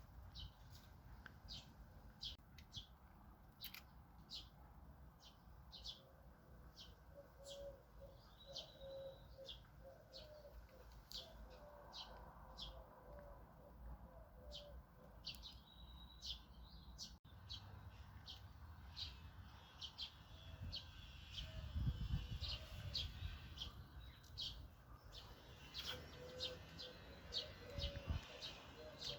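Garden birds chirping, with short high notes repeated over and over, and lower cooing calls now and then. A faint low rumble swells about two-thirds of the way through.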